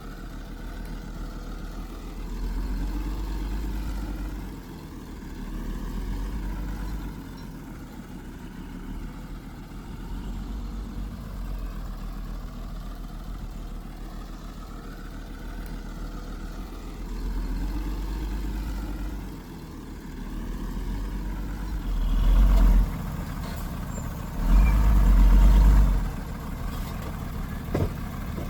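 Heavy earthmoving machinery's engine working, its pitch rising and falling in repeated cycles every few seconds. Near the end come two loud low rumbles a couple of seconds apart.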